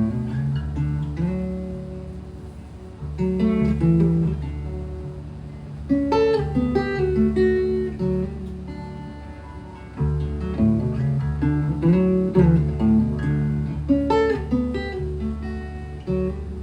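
Acoustic guitar played by plucking, picked notes in repeating phrases that start afresh every few seconds.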